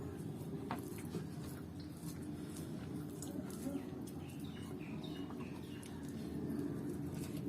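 Person eating: soft chewing and scattered small mouth clicks over a steady low background hum.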